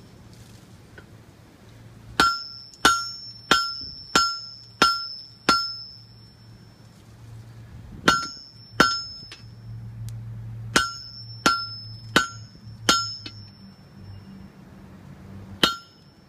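Blacksmith's hammer striking on an anvil, each blow ringing briefly: a run of six blows at about one and a half a second, a pause, then shorter runs and a last single blow near the end.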